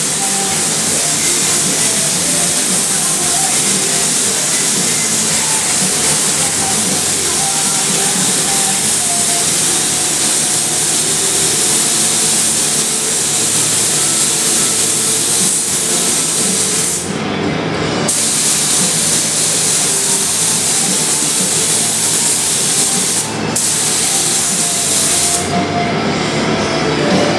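Compressed-air spray gun spraying primer in a steady, loud hiss. The trigger is let off for about a second two-thirds of the way through and again briefly a little later, and near the end it sprays in short bursts.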